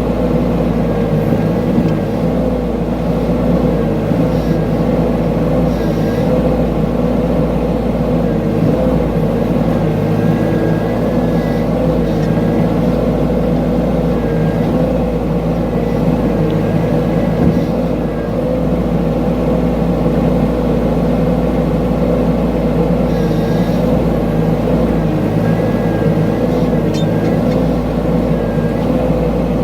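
Mini excavator engine running steadily under work, with a faint high whine that rises and falls every few seconds.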